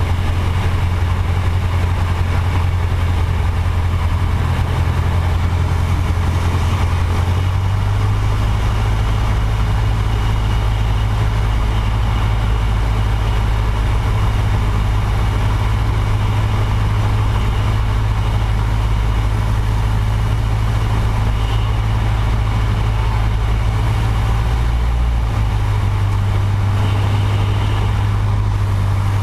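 Small aircraft engine droning steadily, heard close up. Its note shifts lower about seven seconds in and back up near the end, as the power setting changes.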